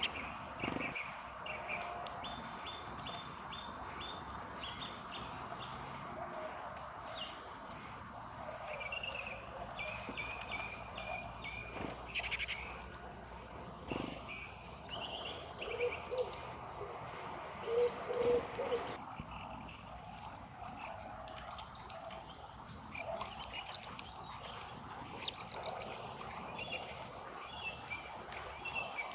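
Common starling singing: a varied run of short chirps, whistles and clicks over a steady background hiss, turning higher-pitched about two-thirds of the way through.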